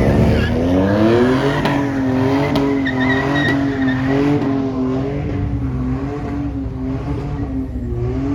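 Vehicle engine revved hard, its pitch climbing over the first second and a half, then held at high revs with the pitch wavering up and down.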